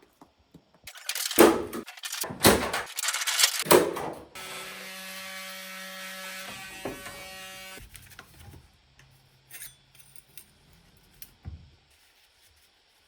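A few loud knocks and rustles of handling, then a small electric motor, likely a power tool, runs at a steady pitch for about three and a half seconds. After that come scattered light clicks and taps.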